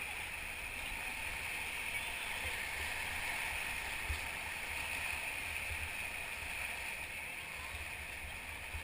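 Steady rush of Ocoee River whitewater around the raft, an even wash of noise with no breaks.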